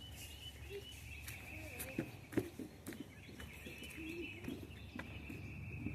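Quiet outdoor ambience: a steady high-pitched background chorus of calls runs throughout, with faint distant voices of people and a few light knocks.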